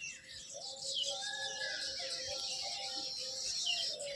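Small birds chirping and twittering in short rising and falling calls, over background music with held steady notes.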